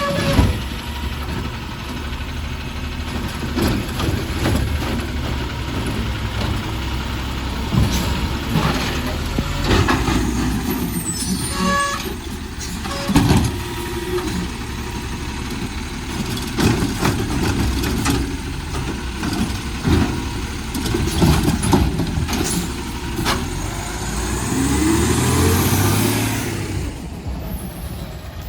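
City garbage truck working: its diesel engine runs throughout, with repeated metal clanks and bangs. Near the end the engine revs up in a rising tone and grows louder.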